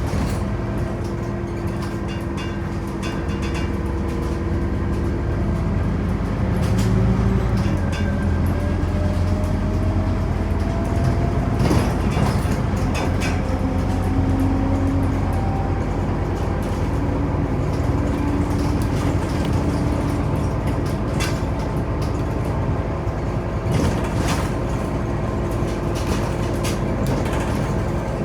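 Scania OmniCity city bus heard from inside the cabin while driving: its diesel engine and drivetrain run steadily, with a whine that slowly rises in pitch as the bus gathers speed. A few knocks and rattles of the body come through, the sharpest about twelve seconds in.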